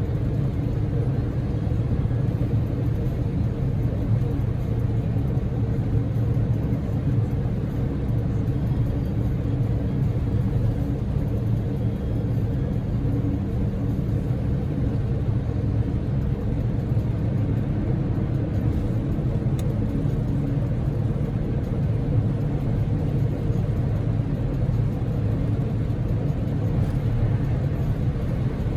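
Steady low rumble of a Daihatsu Move (L150S) heard from inside the cabin while driving: road and tyre noise mixed with the hum of its small three-cylinder engine, unchanging throughout.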